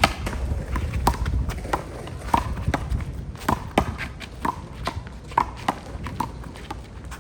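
Handball rally: a string of sharp smacks, irregularly spaced, as the small rubber ball is slapped by hand and strikes the wall and court.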